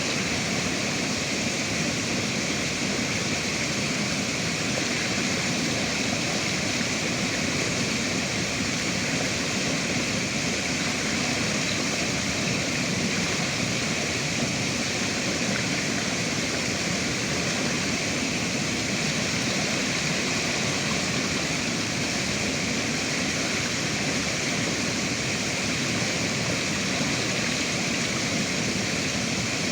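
River water flowing and rushing as a steady, unbroken wash of sound.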